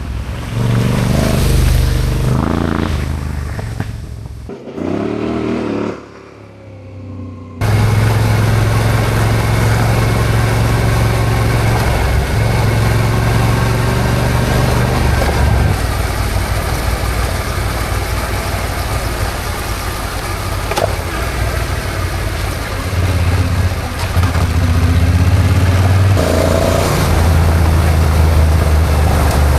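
Yamaha Ténéré adventure motorcycle engine under way, rising and falling in pitch as it pulls through the gears. It eases off to a quieter stretch around five to seven seconds in. From about eight seconds in it runs at steady road speed with heavy wind rushing on the microphone, and changes pitch again near the end.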